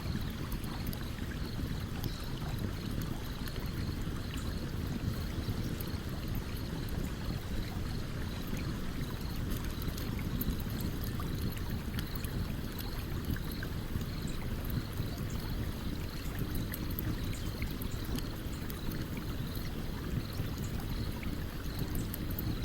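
Campfire crackling with scattered small sharp pops over the steady rush of a stream. A faint high chirp repeats about twice a second throughout.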